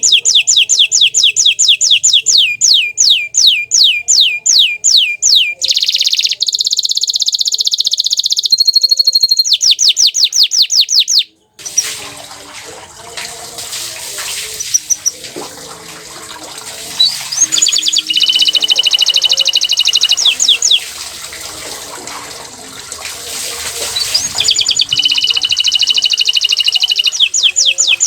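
Bottle-green domestic canary singing: fast repeated downward-sweeping notes, about four a second, then a buzzing held phrase and another fast run. After a brief break about eleven seconds in, the song comes back over a steady hiss, with two rolling trills.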